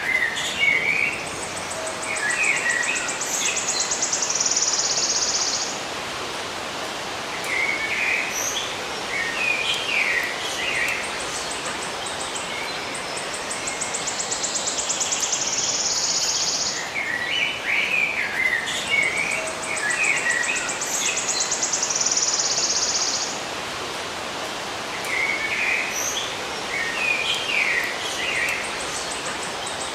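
Songbirds chirping in short clusters every few seconds, with a high, rapid buzzing trill that comes and goes three times, over a steady background hiss.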